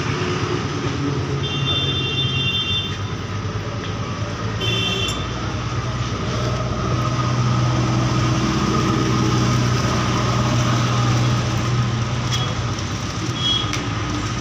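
A vehicle engine running steadily with a low hum, with two short high-pitched tones about two and five seconds in.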